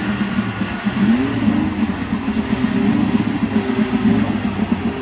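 Car engine running steadily at close range, with a brief small rise in pitch a little after a second in.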